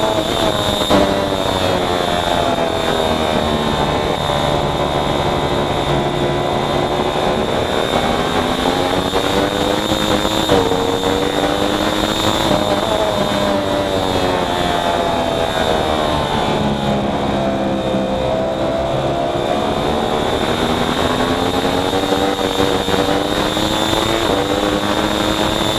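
Racing motorcycle engine at full race pace, heard from on the bike: the revs fall away and climb again several times as it slows for corners and accelerates out, with brief steps in pitch at the gear changes.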